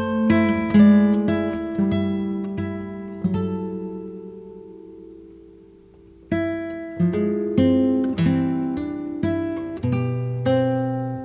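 Acoustic guitar intro: plucked chords that ring and die away, fading almost out for a few seconds before a new phrase of picked notes starts about halfway through.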